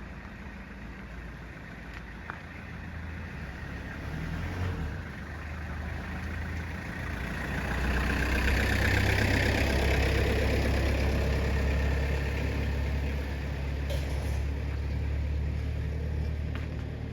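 A road vehicle passing by: engine and tyre noise over a steady low rumble, swelling to a peak about halfway through and easing off afterwards.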